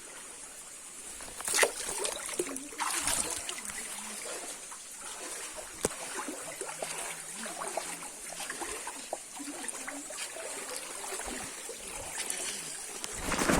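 Shallow running water trickling and splashing, with a couple of louder splashes in the first few seconds.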